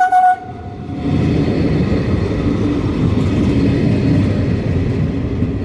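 Electric multiple unit running past close by: a steady, loud rumble of wheels on rail and traction motors that builds about a second in. A loud pulsing high tone breaks off just at the start.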